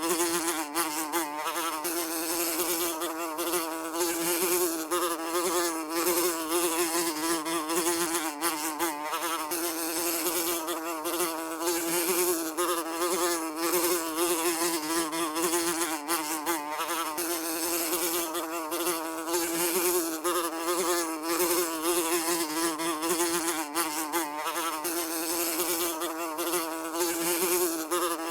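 Housefly buzzing continuously in flight, a steady drone whose pitch wavers slightly as it flies about.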